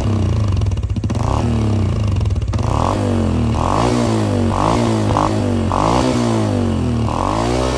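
Honda CT125 Hunter Cub's 125 cc single-cylinder four-stroke engine running through an aftermarket muffler. It runs steadily at first, then from about three seconds in its note rises and falls again and again.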